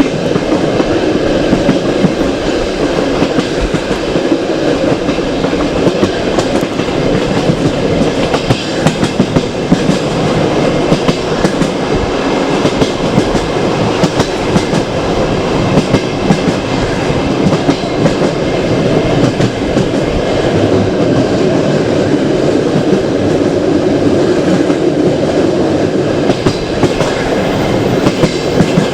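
Passenger train carriage running along the track: a steady rumble of wheels on rail with frequent irregular clicks and knocks of the wheels over rail joints.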